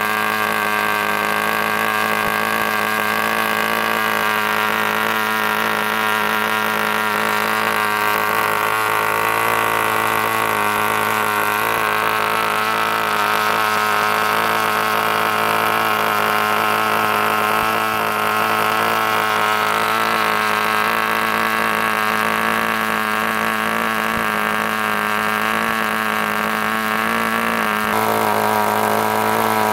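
G-Mark .12 twin-cylinder model glow engine running steadily on glow fuel, spinning a 7x6 propeller. The pitch holds even throughout.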